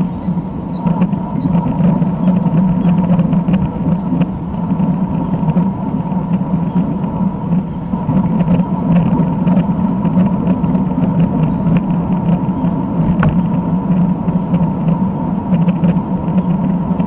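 Steady rumble of road and wind noise while moving along a road, with faint scattered ticks over it.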